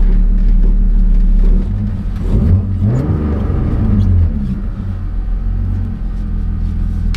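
Rally car engine idling in the cabin at the stage start, with the revs blipped up and let back down between about two and four seconds in.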